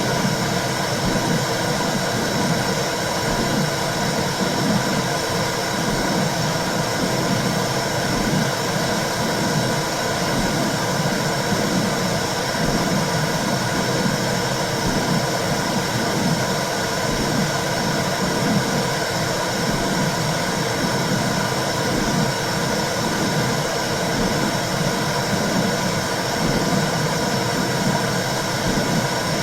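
Womb sound for soothing a baby: a steady low rushing noise with soft, uneven pulsing whooshes in the low range.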